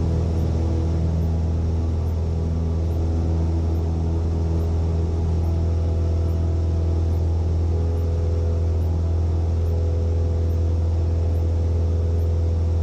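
Cessna 172N's piston engine and two-blade propeller running steadily at full takeoff power during the climb-out: a loud, even drone heard inside the cockpit.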